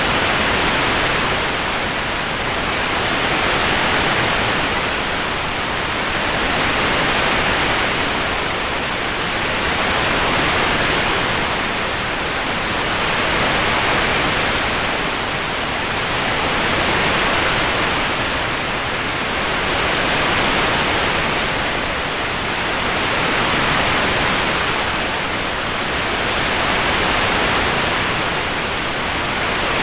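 A steady rain-sound hiss, close to static, that swells and eases gently about every three seconds.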